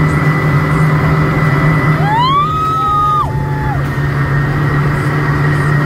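Motorboat engine running steadily under way. About two seconds in, a long high cry rises, holds for about a second and falls away, with a second, lower one overlapping it.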